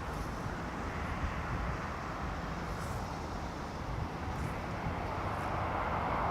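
Jet airliner engines heard from a distance: a steady rumble with a hiss that swells slightly near the end.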